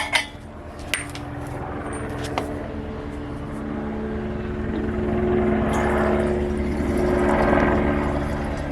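Mini bike's single-cylinder Predator engine running as the bike rides off. The engine picks up about three seconds in, with rushing wind noise rising along with it. A few sharp clicks of handling come first.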